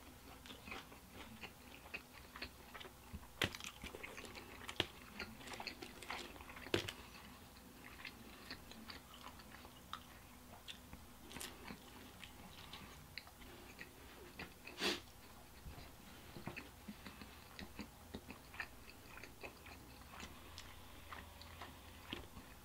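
Close-miked mouth sounds of a person biting and chewing food, pizza and pepperoncini peppers: faint wet clicks and small crunches scattered throughout, with one louder click about fifteen seconds in.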